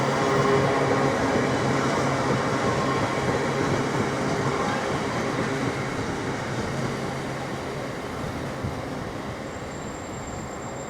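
Diesel freight train double-headed by two GBRf Class 66 locomotives rolling past and moving away. A steady engine hum fades out about halfway through, leaving a rolling rail noise that grows gradually quieter.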